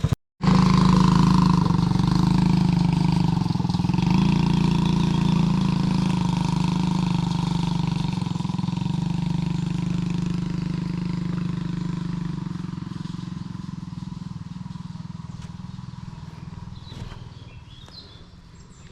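Quad bike engine running at a steady pitch, then fading over the last several seconds as the bike moves away.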